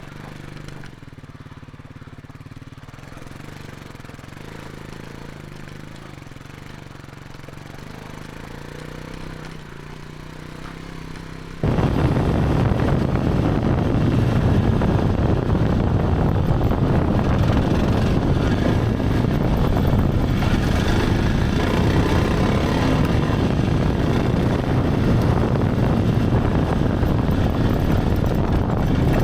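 Kawasaki KLX300 single-cylinder dirt bike engine idling steadily. About twelve seconds in, the sound jumps abruptly to a much louder, dense roar of the bike riding along, engine and rushing air together.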